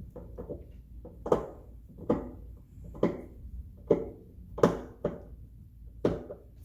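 Plastic dollhouse parts knocking and clicking as pieces are fitted together, about seven sharp knocks at a steady pace, roughly one a second.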